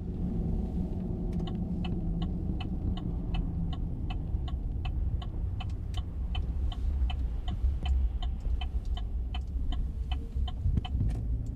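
Truck cabin while driving: steady low engine and road rumble, with an even ticking about three times a second that starts about a second in.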